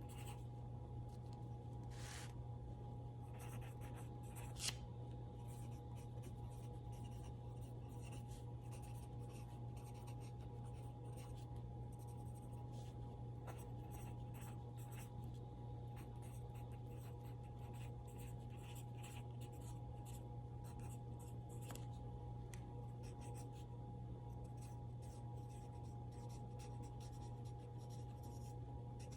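Faint scratching, rustling and light clicks of small handling on a tabletop, with one sharper click about five seconds in, over a steady low electrical hum.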